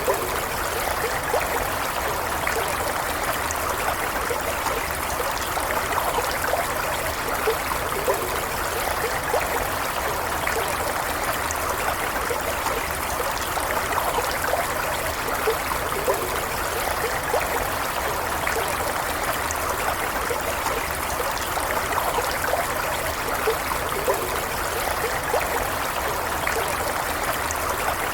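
Steady running water of a small stream, flowing and trickling with fine bubbling detail.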